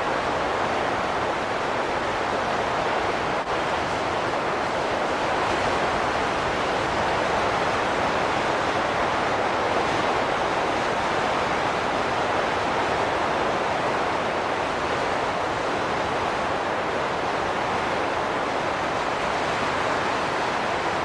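Wind blowing steadily: an even rushing noise that swells and eases slowly.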